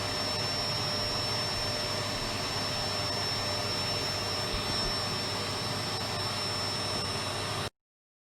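Electric vacuum cleaner running steadily: a constant rush of air with a thin high whine. It cuts off abruptly near the end.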